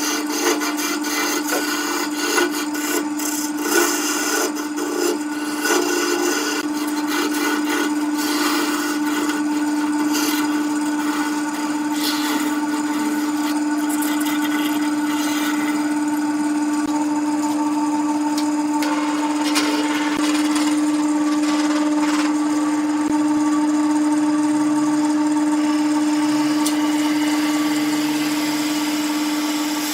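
Wood lathe running with a steady motor tone while a turning tool cuts the spinning wood, giving an uneven scraping noise, roughest in the first dozen seconds.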